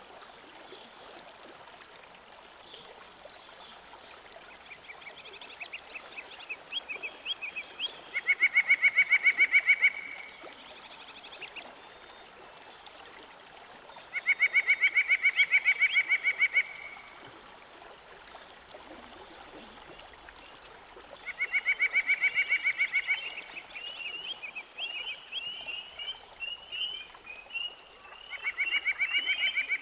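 A frog calling in rapid pulsed trills of about two seconds each, repeated four times, with small birds chirping in between.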